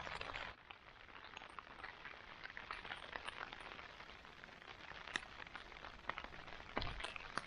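Rain falling on a tent: a faint, steady hiss with many small drop hits and a few louder drips.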